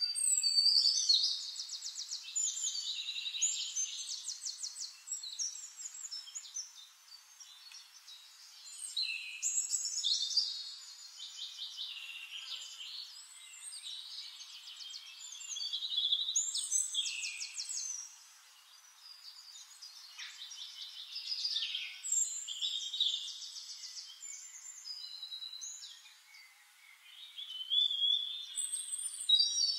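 A songbird singing: phrases of fast, high trills and chirps, each a few seconds long, repeated every several seconds.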